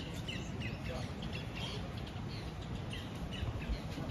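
Birds chirping: many short, high chirps, several a second, over a steady low background rumble.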